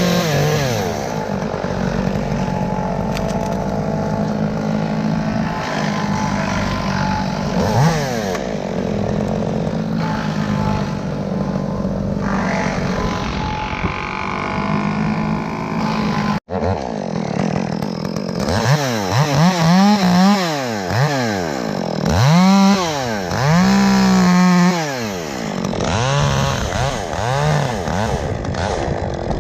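Two-stroke chainsaw running at high throttle and cutting wood. In the second half its pitch rises and falls again and again as the throttle is opened and let off.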